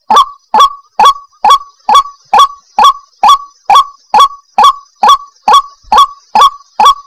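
White-breasted waterhen (ruak-ruak) calling over and over, a short, sharply rising note about twice a second, loud and unbroken. It is the repeated call used as a lure for wild waterhens.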